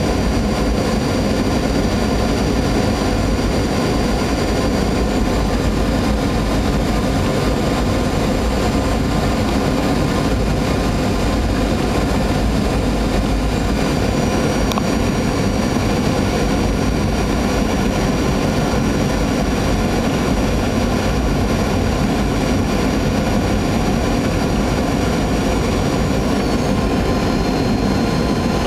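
Jet airliner cabin noise: the steady roar of the engines and rushing air heard from inside the cabin. Faint high engine tones shift slightly in pitch about halfway through and again near the end.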